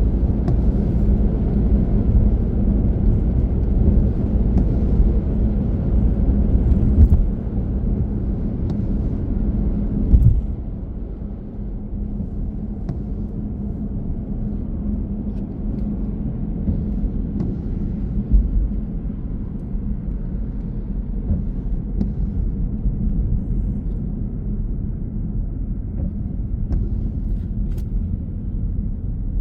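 A car driving: a steady low road and engine rumble with a faint steady hum, which drops a little in level about ten seconds in.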